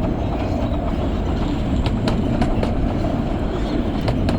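A train running into the station with a steady rumble, and a few sharp clicks from the wheels over the track.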